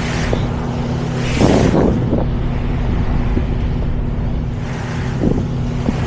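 Semi truck's diesel engine droning steadily with road noise while driving, with a brief louder burst of sound about a second and a half in.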